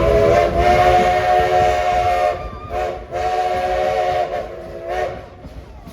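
Steam locomotive's chime whistle, several tones sounding together as a chord, blown in a pattern of long and short blasts: a long blast, a short toot, another long blast and a short one near the end, as for a road crossing.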